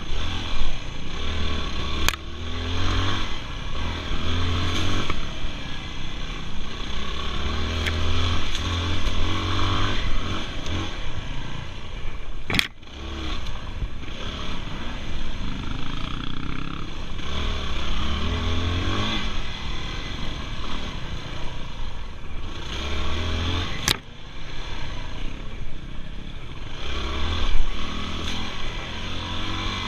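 Dirt bike engine revving hard, its pitch climbing and dropping again and again as the throttle is opened and closed. Three sharp knocks cut through it, about two seconds in, in the middle and near the end.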